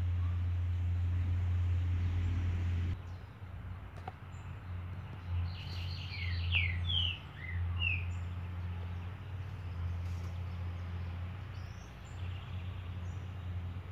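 Bird chirping: a quick run of short, falling notes about halfway through. A steady low hum runs underneath and is the loudest sound throughout.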